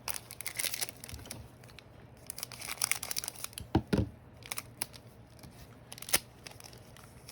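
A trading-card pack wrapper being torn open and crinkled, in rustling bursts, with a few sharp taps as the cards are handled.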